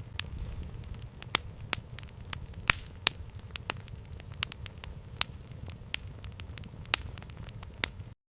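Campfire burning: irregular sharp crackles and pops over a low, steady rumble of flame. The sound cuts off abruptly near the end.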